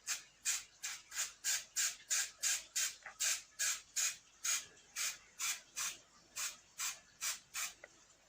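Aerosol spray-paint can working in quick, evenly spaced short strokes, about three a second, each a brief hiss or rattle.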